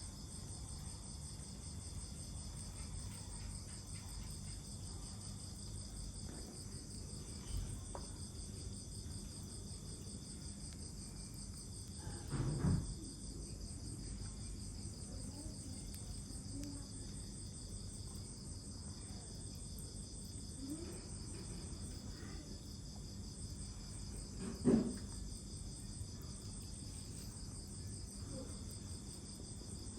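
Crickets chirping steadily, with three short knocks, the loudest about halfway and near the end.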